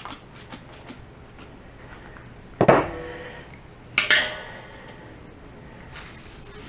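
Two sharp metal clanks about a second and a half apart, each ringing briefly, as metal parts or tools knock together.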